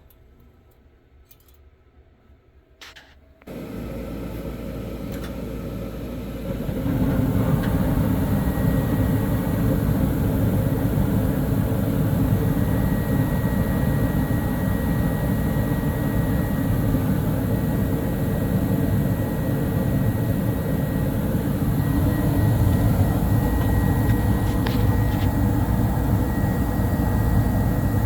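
Carrier gas furnace starting up: a couple of clicks, then a motor switches on about three and a half seconds in, and a second step about seven seconds in brings a loud steady rush of air with a faint steady whine.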